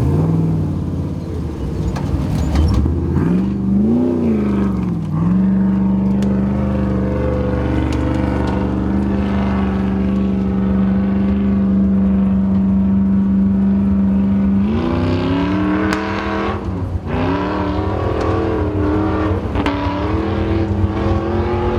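Nissan GQ Patrol competition 4x4's engine running hard. It revs up and down, holds steady high revs for several seconds, then revs up and dips again before climbing once more.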